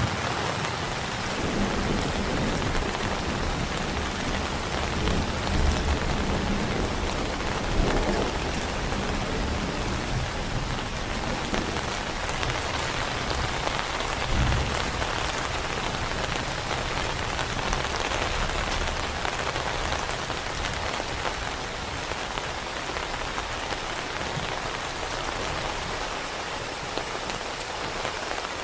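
Heavy rain falling steadily, with a low rumble of thunder dying away at the start and a few brief low rumbles later.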